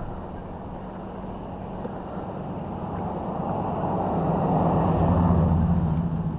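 A motor vehicle driving past, its engine hum and road noise swelling to a peak about five seconds in and then fading.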